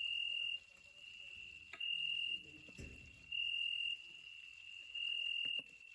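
A cricket singing: a steady high trill that swells into louder pulses of about half a second, roughly every second and a half. A soft low thump about three seconds in.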